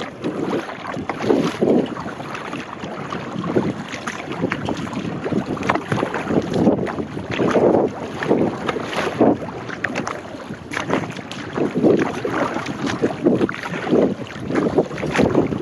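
Sea kayak being paddled: paddle strokes splashing and water lapping at the hull in repeated surges, with wind buffeting the microphone.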